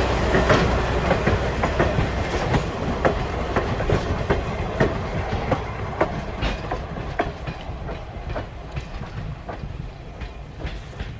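Railroad passenger cars rolling past, their wheels clicking over the rail joints in irregular pairs over a steady rumble, fading as the train moves away.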